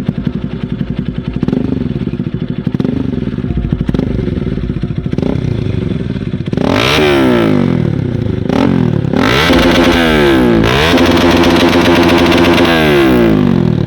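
Bajaj Pulsar NS200's single-cylinder engine through a modified aftermarket exhaust, idling with short throttle blips, then revved hard several times from about halfway in, the last rev held high for a couple of seconds before dropping back.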